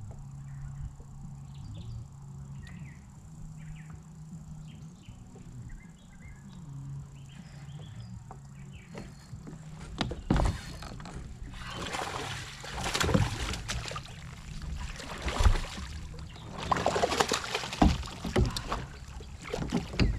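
A steady low hum with faint chirps, then from about halfway through repeated loud bursts of water splashing and sloshing at a kayak. The splashing is that of a hooked largemouth bass thrashing at the surface as it is fought in and landed.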